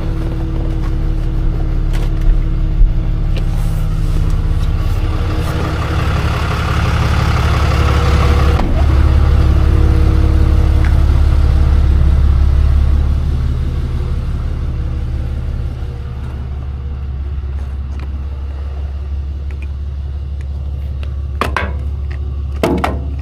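Tow truck engine running steadily, getting louder for several seconds in the middle and then settling back. A few short knocks come near the end.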